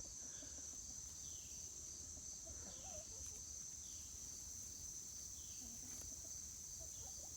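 Steady high-pitched drone of crickets chirping in an evening insect chorus, with faint short falling chirps repeating every second or so.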